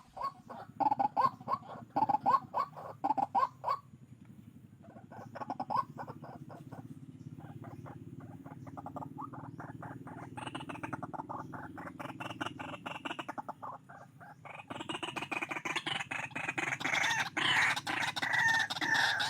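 A fowl clucking in quick repeated runs, with louder, denser calls starting about three quarters of the way through.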